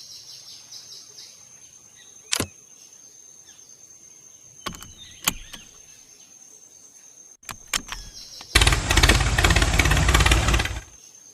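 A few sharp clicks and knocks, then a small motor starts running loudly about two-thirds of the way in, runs for about two seconds and cuts off suddenly.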